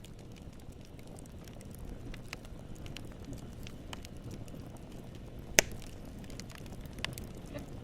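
Wood campfire burning: a steady low rumble of flames with frequent small crackles of the wood, and one sharp loud pop about five and a half seconds in, followed by a smaller pop about a second later.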